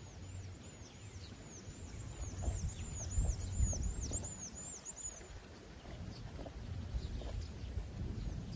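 A quick run of thin, high, falling chirps from a small bird, about three a second, fading after about five seconds, over a low outdoor rumble.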